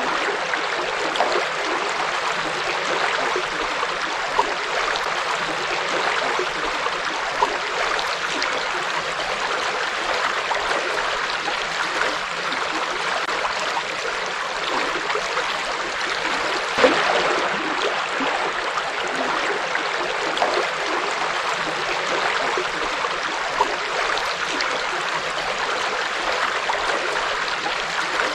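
Forest river flowing steadily over stones, a continuous rushing and babbling with small splashes, one a little louder about 17 s in.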